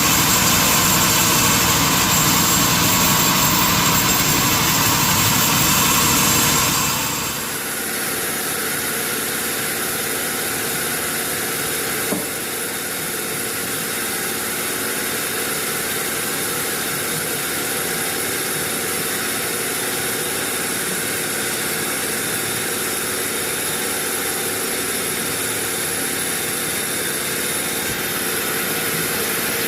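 Sawmill machinery running: loud and harsh for about the first seven seconds, then dropping to a steadier, quieter hum, with one light knock about twelve seconds in.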